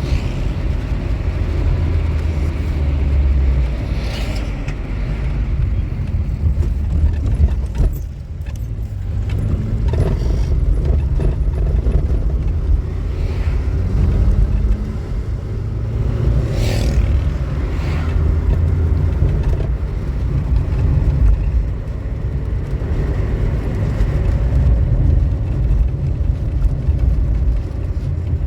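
Motor vehicle running: a steady low engine and road rumble, with a few brief higher noises over it, the strongest about two-thirds of the way through.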